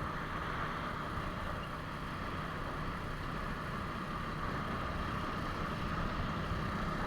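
Suzuki Smash 115 underbone motorcycle under way: steady engine and road noise mixed with wind on the microphone.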